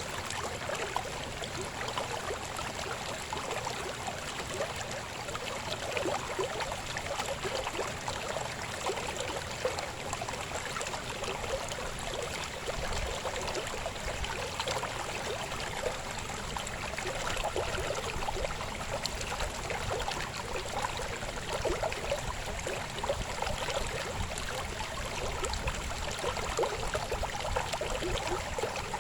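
Babbling river flowing steadily over stones: a constant rushing and gurgling of water with many small splashes.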